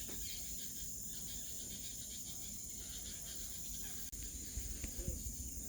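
A steady, high-pitched insect chorus of crickets or cicadas, with faint clucking calls from a flock of smooth-billed anis in the first second or so and a single light click about four seconds in.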